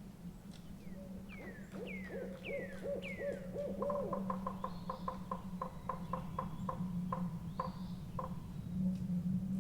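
An owl hooting in a forest, with other birds calling over it: four down-slurred whistles, then a quick run of short notes that slows and stops. A steady low rumble runs underneath.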